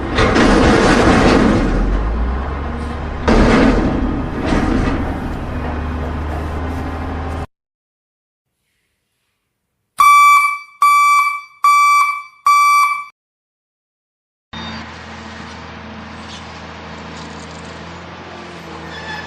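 A vehicle engine running with two loud surges, which cuts off abruptly. After a pause come four short vehicle horn honks in quick succession, then after another pause a steadier engine hum runs on.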